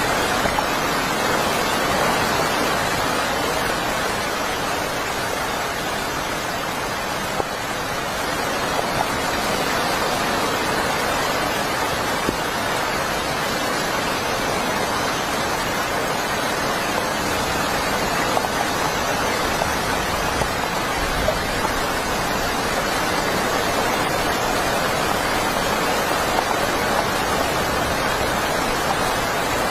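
Heavy rain falling steadily, an unbroken hiss with a few louder drops ticking here and there.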